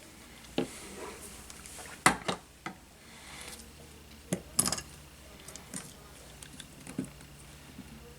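Small hard tools and parts being handled and set down on a workbench: a scattering of sharp clicks and clacks, the loudest about two seconds in and again about four and a half seconds in, with light rustling between.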